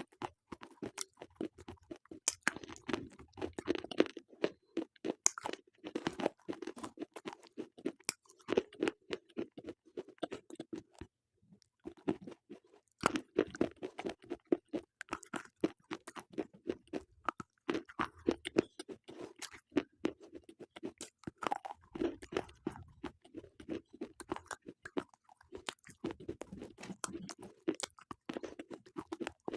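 Slate pencils being bitten and chewed: a dense run of sharp, dry crunches, with a short pause about eleven seconds in.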